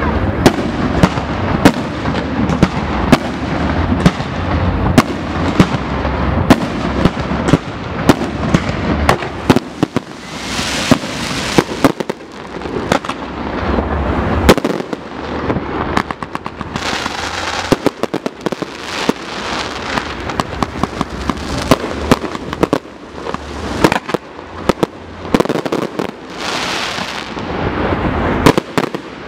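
Fireworks display: aerial shells bursting in a dense, irregular string of sharp bangs and pops, dozens over the stretch, over a low rumble.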